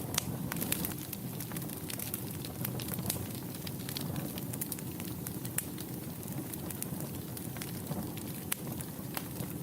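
Wood fire burning in a fireplace: a steady low rumble of flames with frequent sharp crackles and pops of burning wood.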